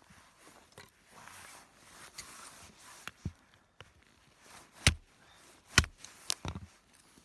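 Split kindling and firewood being handled and set in place: soft rustling broken by a few sharp wooden knocks, the loudest two about five and six seconds in.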